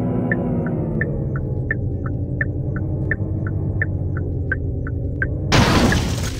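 Sustained held chords from a keyboard pad, with a light ticking pulse about three times a second. A loud burst of hiss lasting about a second comes in near the end.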